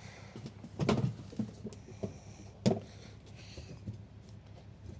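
Objects being moved about: two sharp knocks, about a second in and a little past halfway, with lighter clicks and clunks between them.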